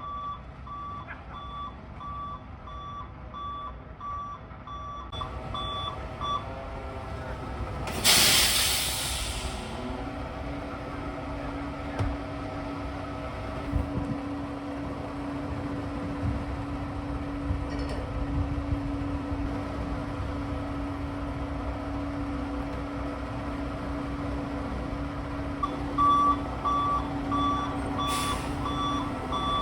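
Heavy construction truck's reversing alarm beeping about twice a second, over the low drone of its diesel engine. About eight seconds in the air brakes let out a loud hiss, and then the engine settles into a steadier, higher drone. The beeping starts again near the end with another short air hiss.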